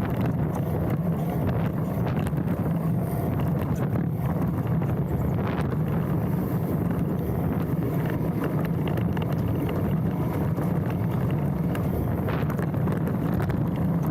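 Wind buffeting a handlebar-mounted action camera's microphone, over the steady rumble and rattle of a mountain bike rolling down a dirt trail.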